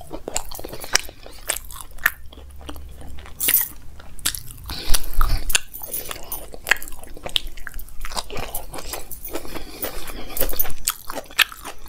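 Close-miked chewing, with wet mouth clicks and crunching, of a person eating aloo paratha with curd and a raw radish-and-carrot salad. One louder crunch comes about five seconds in.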